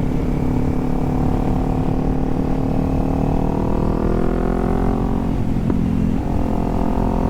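Kawasaki Z400 parallel-twin engine under acceleration, its pitch climbing steadily for about five seconds, then dropping sharply at an upshift and pulling again at lower revs.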